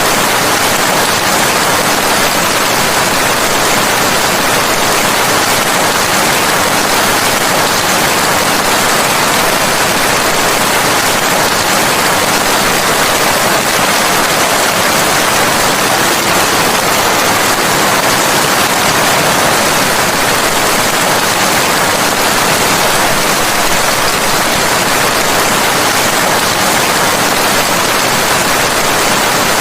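Steady, dense rain, an even hiss with no distinct drops or breaks.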